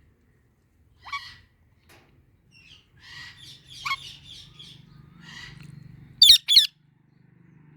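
Indian ringneck parrots chirping in a string of short chattering notes, then two loud, shrill screeches close together about six seconds in.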